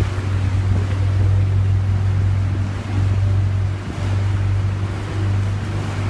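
A boat's engine running with a steady low hum, under a rush of water and wind noise.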